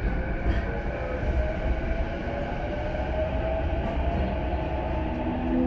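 Running noise inside an E233-1000 series electric train's motor car: a steady rumble of wheels on rail, with the traction motors and Mitsubishi IGBT-VVVF inverter whining and rising gently in pitch. A few light rail-joint clicks come through.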